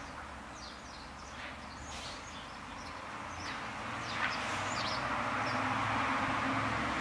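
Short high chirps, like small birds calling, scattered over a steady background noise that grows louder over the last few seconds.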